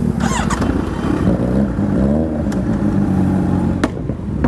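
Motorcycle engines revving, rising and falling in pitch, with two sharp cracks about two and a half and four seconds in.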